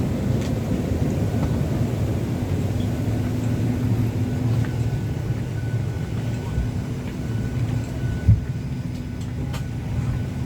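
Steady low hum and rumble inside a Boeing 737-800 passenger cabin, with a few faint clicks and a brief thump about eight seconds in.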